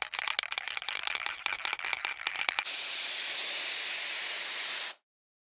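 Aerosol spray paint can: a rapid rattle of clicks as the can is shaken, then about two seconds of steady, high spraying hiss that cuts off suddenly.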